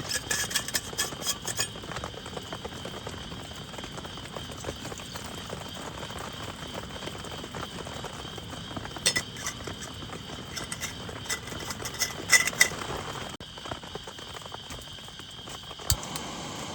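Steady rain hiss with scattered sharp clicks and clinks in several clusters, with the loudest near the start and a little past the middle.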